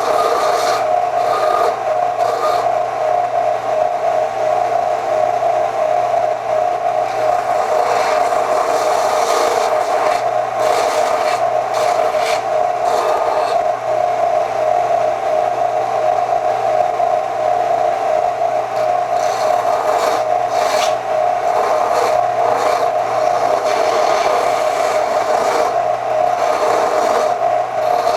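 Electric power tool running at a steady pitch, with irregular scraping as it grinds against the steel of an old tractor wrench, stripping rust back to bare metal.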